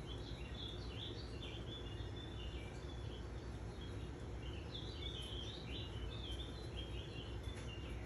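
A songbird twittering in the background: two bouts of quick, high chirps, the first in the opening few seconds and the second from about halfway through, over a steady low background noise.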